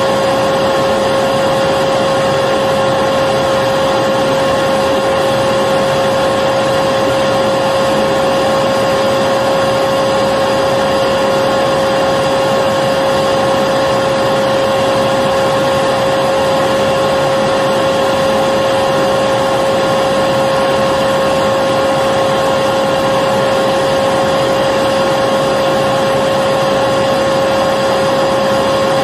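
Electric vacuum cleaner running steadily, a constant motor whine over a rushing air noise, with no change in pitch or level.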